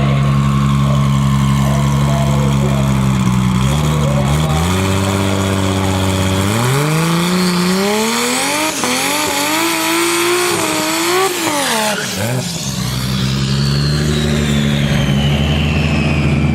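The turbocharged 2JZ inline-six of a drag-racing Toyota Tacoma launching and accelerating hard: its pitch climbs steadily with brief dips at the upshifts, then drops away, and a high whine glides downward as the truck pulls away. A steady engine idle sits underneath before and after the run.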